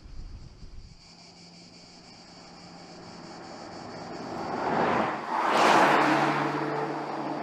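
A Porsche Panamera Sport Turismo E-Hybrid approaches and drives past. Tyre and engine noise build to a peak about five to six seconds in, then fade as it moves away, and the engine note drops slightly in pitch as it passes.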